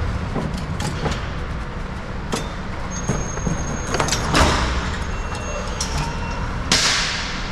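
Knocks and clanks of work on commercial garage door hardware over a steady low rumble, with two louder scraping rushes, one about halfway through and one near the end.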